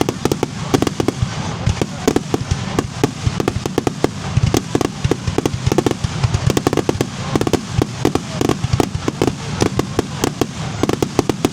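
Fireworks display: a rapid, continuous barrage of bangs and crackles, several a second.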